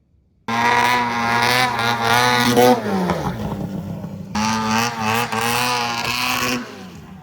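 Snowmobile engine running and being revved unevenly, cutting in about half a second in; the revs climb briefly, sag, pick up again and drop off near the end. The engine does not run right.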